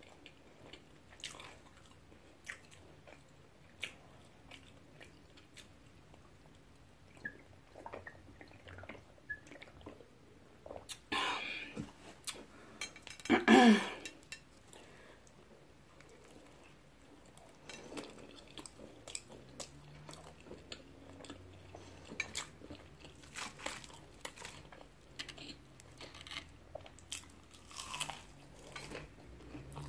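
Close-miked eating: chewing, biting and crunching of a cheeseburger and fried onion rings, with many small wet mouth clicks. About halfway through, a short, loud voiced sound from the eater rises above the chewing.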